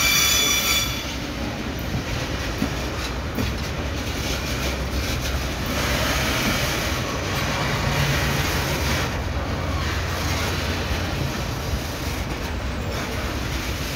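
Bauxite ore train's gondola wagons rolling past: a steady low rumble with wheel clatter over the rails, and a brief high metallic squeal in the first second.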